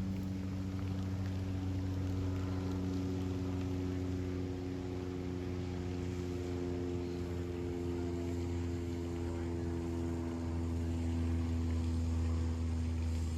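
Motorboat engine running steadily, its pitch drifting slowly.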